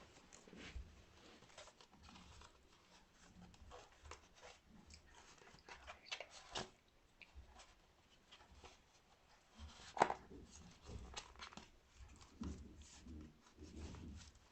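Faint handling sounds: scattered light clicks and rustles of small objects, with one sharper click about ten seconds in.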